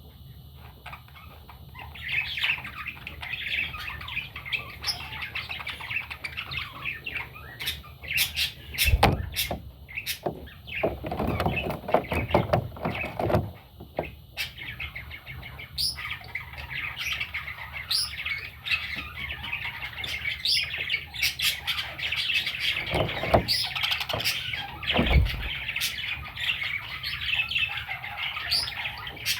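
Baby budgerigars chirping in dense, rapid high twitters from about two seconds in, with a few knocks now and then.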